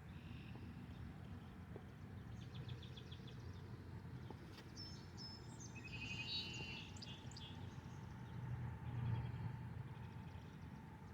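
Songbirds singing faintly in short trilled and chirping phrases, busiest in the middle of the stretch, over a steady low rumble.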